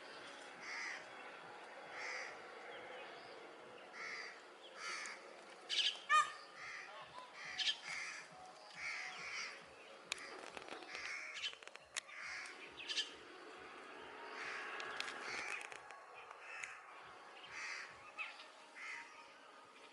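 Birds giving short harsh calls over and over, about one a second, with a few louder calls about six seconds in.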